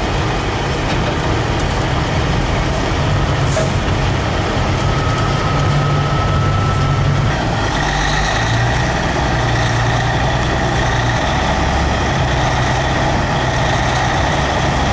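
Heavy truck's diesel engine running hard, its pitch shifting about halfway through, with a steady high whine joining it from then on.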